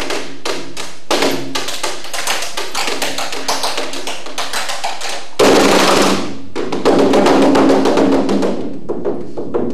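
Live percussion played fast: a dense stream of rapid stick strokes on drums. It swells louder about a second in, and much louder about five and a half seconds in.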